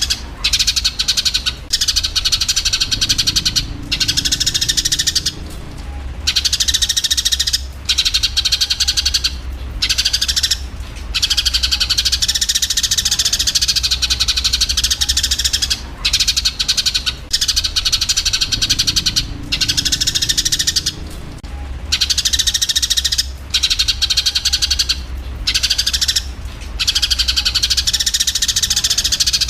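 Eurasian tree sparrows chirping and chattering rapidly in a dense stream, the squabbling calls of sparrows fighting, broken by short pauses every second or two, over a steady low hum.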